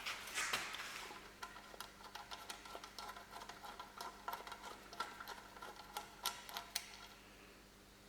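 Small, sharp metallic clicks and taps at an irregular pace of a few a second, from hand-tool work on a car, with a short rustle near the start. The clicks thin out in the last second.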